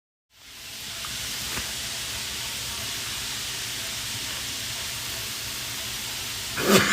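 A steady hiss fades in within the first second and holds evenly, cut off by a voice near the end.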